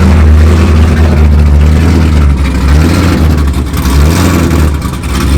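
Car engine running loud and steady nearby, with a deep, even low rumble and slight dips in level.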